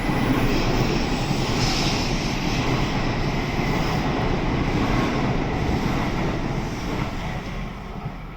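N700S Shinkansen pulling out of the station, its cars rushing past with a steady loud rumble and hiss that fades near the end as the train draws away.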